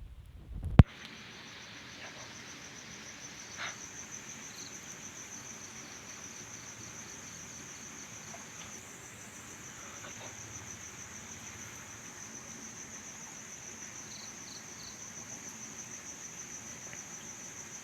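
Insects chirping at night in a steady, rapidly pulsing high trill, typical of crickets. A single sharp knock comes just under a second in.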